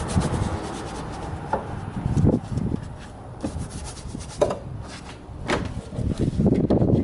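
Detail brush scrubbing foamed engine-bay parts in quick, irregular strokes, with a few sharp taps of the brush against the parts.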